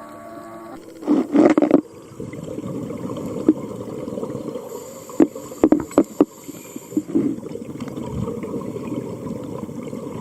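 Scuba diver's exhaled air bubbling and gurgling from the regulator, heard underwater, with a loud bubble burst about a second in and scattered pops after it. A steady hum stops just before the first burst.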